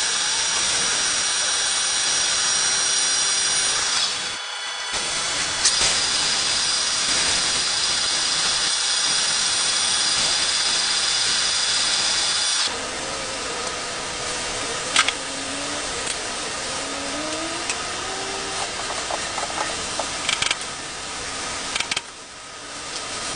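CNC machine tool cutting a metal hydraulic rod: a steady machining noise with high whining tones. It drops to a quieter running sound about halfway through, with a few sharp clicks.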